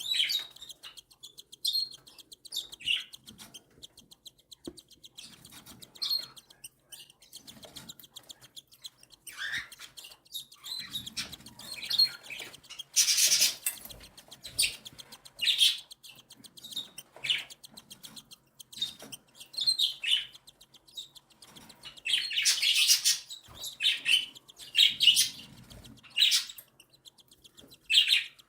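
Cockatiel chicks begging for food: high-pitched cheeping calls in short, irregular bursts, loudest about halfway through and again a few seconds later.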